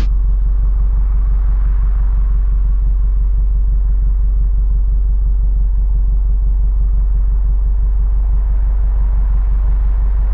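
Subaru WRX STI's turbocharged flat-four engine idling: a deep, steady rumble with an even pulse and little treble.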